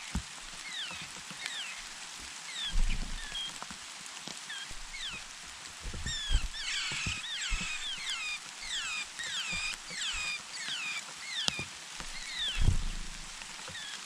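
Nestling birds chirping: many short, downward-sliding chirps repeated throughout, crowding into a dense chorus about six to nine seconds in. Several low thumps are heard among them.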